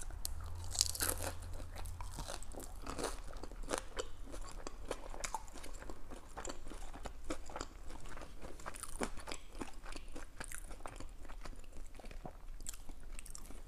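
Close-miked crunching and chewing of a fried dumpling: a crisp bite about a second in, then many small crackling chews.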